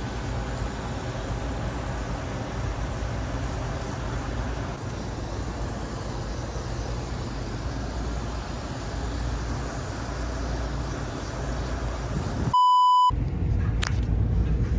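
Rooftop package AC unit running with a steady low rumble and fan noise. About twelve seconds in, a short electronic beep cuts in, and then a different, quieter background follows.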